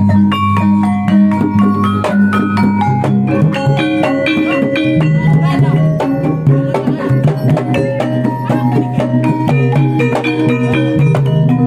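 Javanese gamelan ensemble playing: bronze metallophones struck in quick runs of bright notes over low gong tones, with drum strokes through it.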